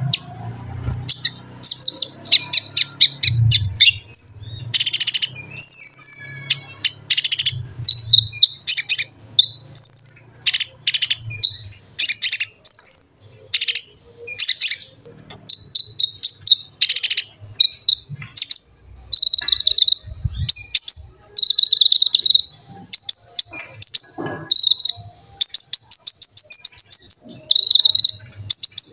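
Konin, a small sunbird, singing loud and close: a fast, unbroken run of high, sharp chirps and quick buzzy trills.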